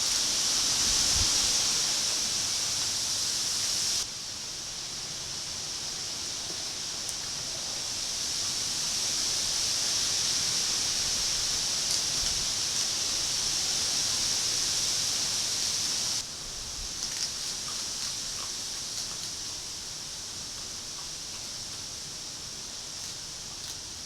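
A steady, high-pitched hiss of outdoor ambience picked up by a trail camera's microphone, stepping down in level about four seconds in and again past the middle. Faint small clicks and rustles come near the end.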